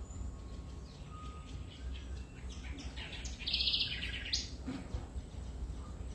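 Birds chirping and calling, with a dense burst of rapid high notes a little after halfway, over a steady low rumble.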